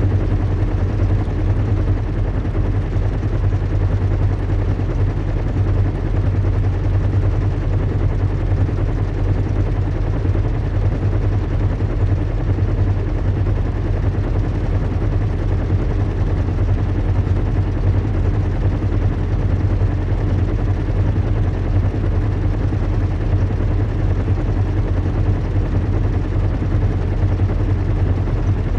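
Recreated in-flight drone of a zeppelin airship: a steady, unchanging low rumble and engine hum, with a fainter higher hum and an even hiss over it.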